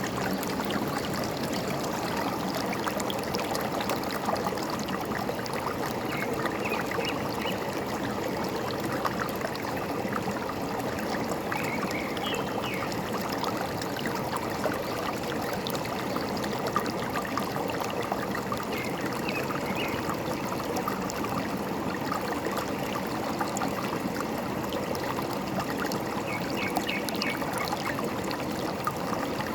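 Forest stream running steadily, the water trickling and gurgling over stones, with a few brief, faint bird chirps now and then above it.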